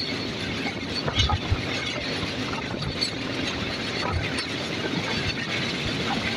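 Indian Railways passenger train running at speed, heard from beside the coach: a steady rush of wheel, rail and wind noise, with a few low knocks about a second in.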